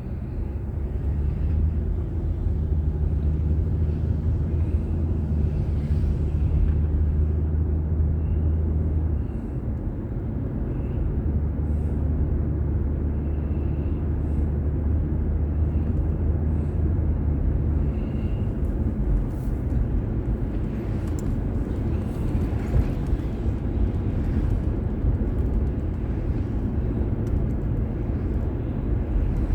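Car driving, heard from inside the cabin: steady engine and tyre road noise with a low hum that drops away twice, briefly about 9 seconds in and for good about 18 seconds in.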